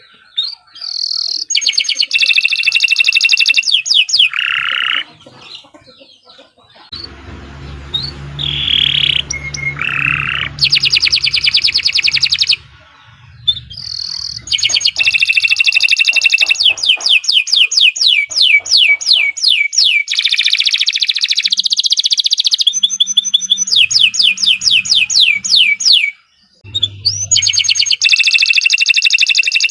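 Domestic canary singing long, rapid trills of repeated notes and short whistled notes, in phrases several seconds long separated by brief pauses.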